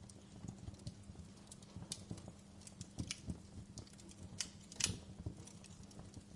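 Wood fire crackling in a fireplace: irregular sharp pops and snaps over a low steady rustle of flame, with one louder pop about three-quarters of the way through.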